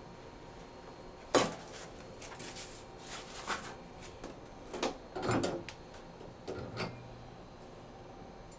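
A sharp knock about a second and a half in, then a run of lighter knocks and rattles over the next five seconds or so.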